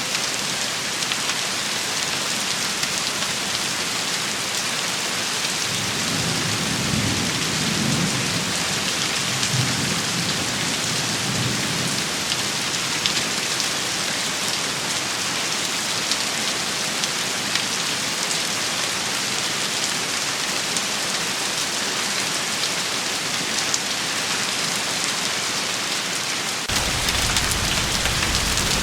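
Steady rain shower falling on hard surfaces, an even hiss scattered with sharp drop ticks. A low rumble of thunder swells and fades from about six to twelve seconds in. About two seconds before the end a deeper steady rumble cuts in abruptly.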